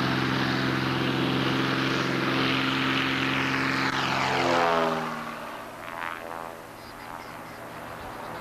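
Cessna 180's engine and propeller at high power as the plane passes close by. Its pitch drops sharply about halfway through as it goes past, then the sound fades as it pulls away.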